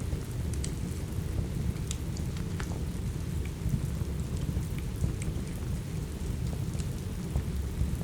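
Steady rain mixed with a crackling wood fire: an even wash of rain over a deep continuous rumble, with sparse sharp pops and crackles scattered throughout.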